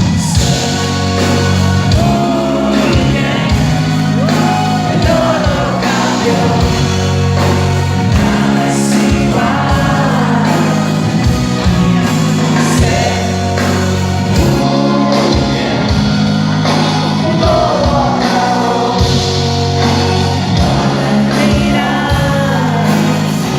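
Live band performance: a sung melody over drums and a repeating bass line, played loud.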